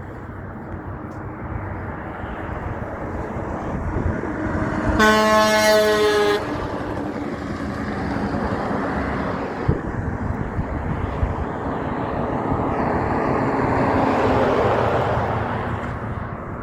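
A big truck's air horn blown once, a single blast of about a second and a half, over the noise of road traffic. The rushing engine and tyre noise of passing vehicles swells again towards the end.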